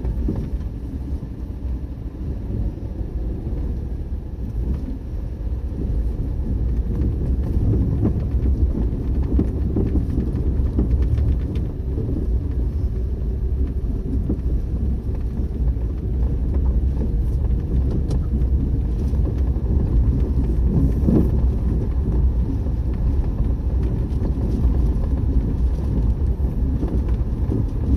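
Strong gusty wind buffeting the microphone: a loud, low rumbling roar that swells and eases with the gusts.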